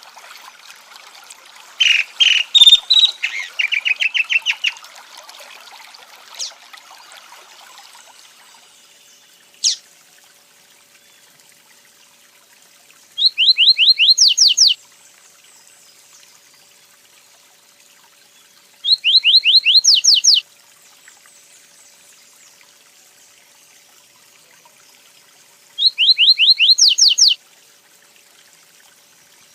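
A songbird repeating the same short song three times, about six seconds apart, each a second and a half of quick whistled notes that slide downward. In the first seconds, a run of loud bird notes sounds over running water.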